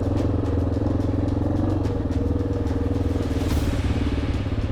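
Single-cylinder four-stroke engine of a 1987 Yamaha XT600Z Ténéré motorcycle running at a low, steady pace, with a small shift in pitch about two seconds in.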